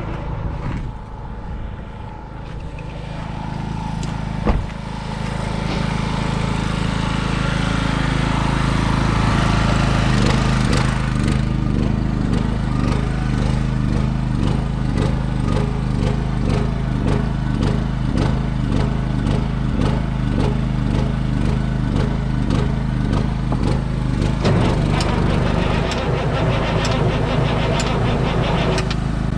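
An engine running steadily. It gets louder a few seconds in and then settles into an even pulsing beat.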